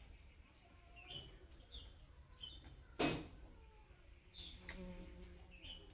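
Budgerigar giving scattered short, high chirps, with a loud sharp click about halfway through and a fainter one a little later.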